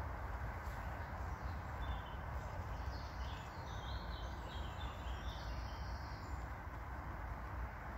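A bird singing a run of short, high chirping notes for a few seconds in the middle, over a steady low outdoor rumble.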